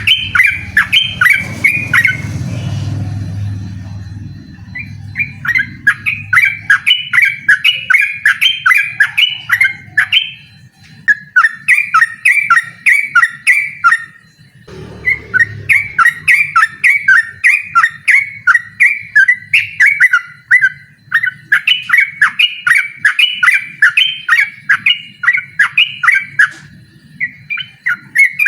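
Yellow-vented bulbul singing its loud song in long runs of short chirping notes, a few a second, with brief pauses, one of them about halfway through. A low rumble sounds under the song about three seconds in and again at the halfway pause.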